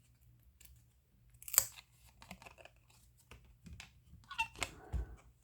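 Baseball trading cards handled by hand: light flicks, slides and rustles as the cards are sorted one by one, with a sharper snap about a second and a half in and a flurry of clicks and rustling near the end.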